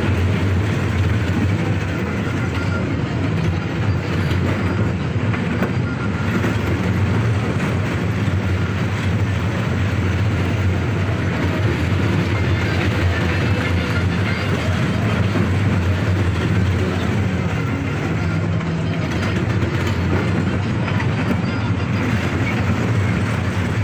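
Moving train heard from on board: a steady, unbroken running rumble, strongest in the low range.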